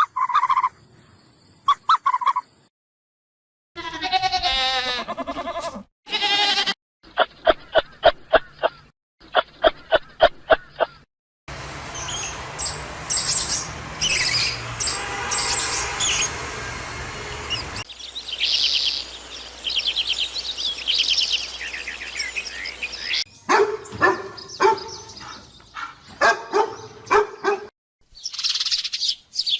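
A run of different animal calls, mostly bird chirps and calls, in short segments that change abruptly: two calls near the start, a series of rising and falling pitched calls, rapid repeated calls, a stretch of high chirps over a steady hiss, and more chirping near the end.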